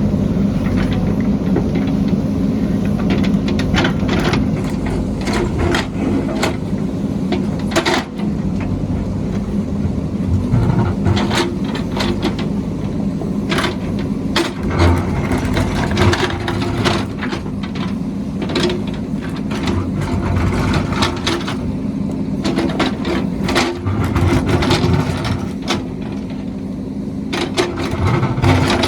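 Diesel engine of heavy construction machinery running steadily, with frequent sharp metallic clanks and knocks from the working machine scattered throughout.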